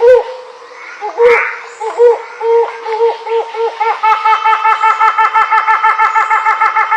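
A bird calling loudly: a few separate notes, then from about four seconds in a fast, even run of repeated notes at about six a second.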